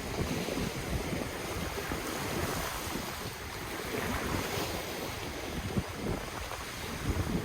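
Ocean waves washing on the shore, a steady surf hiss that swells and eases, with wind buffeting the microphone in low, gusty rumbles.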